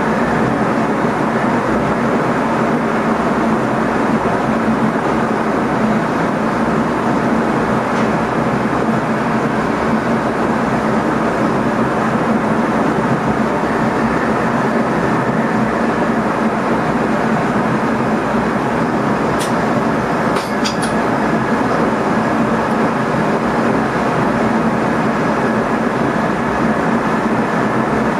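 Steady running noise of an NS ICM electric multiple unit heard inside the driver's cab, with a constant hum under it. A few short clicks come about twenty seconds in.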